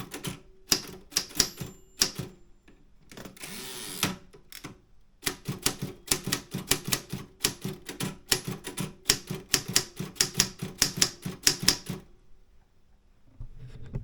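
Optima M10 manual typewriter being typed on: runs of sharp typebar clicks, a short burst then a long fast run of about five strokes a second, broken after about three seconds by a second-long rasp that ends in a knock, and stopping about twelve seconds in.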